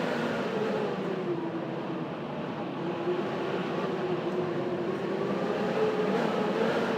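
Blizzard wind howling steadily, with a wavering whistling tone that slowly rises and falls.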